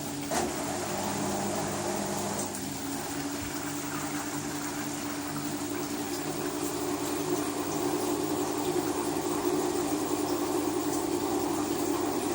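LG WT-R852 direct-drive washing machine running, with a steady hum and water moving through it; the hum changes pitch about two seconds in.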